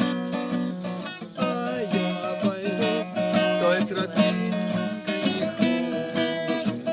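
Music with acoustic guitar strummed and plucked.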